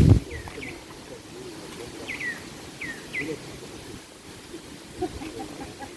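A forest bird calling: short downward-sweeping chirps, about five in the first three and a half seconds, over steady outdoor background. A low thump at the very start is the loudest sound.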